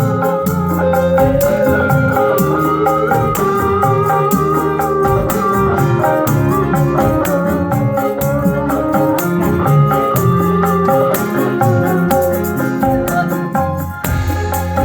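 Rebana modern ensemble playing: hand-beaten frame drums keep a steady rhythm under a held electronic keyboard melody.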